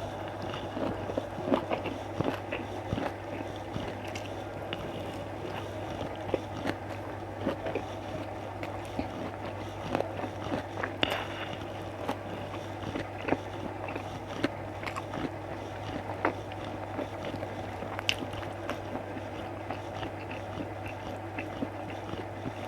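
Close-miked eating: a person chewing and biting food, with frequent short wet clicks and smacks, over a steady low hum.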